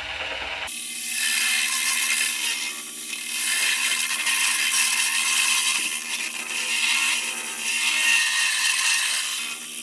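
Drill-driven wire brush scrubbing rust and scale off a rusty muffler weld seam: a harsh, loud scraping whir that starts about a second in and rises and eases over several passes.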